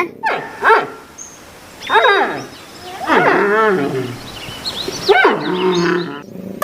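Recorded animal call sound effect: four separate growling calls, each sliding in pitch, the last one the longest.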